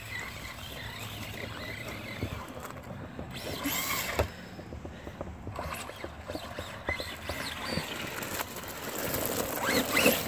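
Electric motors of Traxxas Rustler VXL RC trucks revving in spurts, a whine that rises and falls, over a bed of scattered clicks and noise as they drive through mud.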